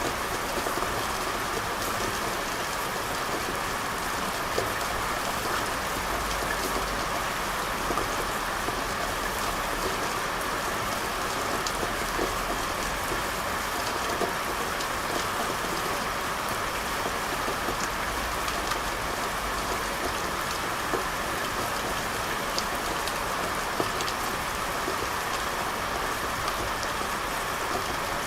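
Steady rain falling on hard surfaces: a constant hiss with scattered sharper drop ticks.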